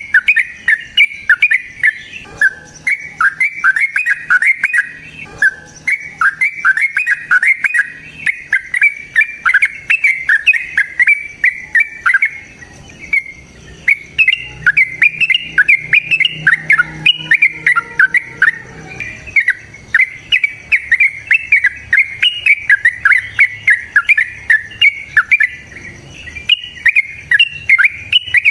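Yellow-vented bulbul (trucukan) singing a long, unbroken run of short bubbly notes, several a second, with a brief pause about halfway through.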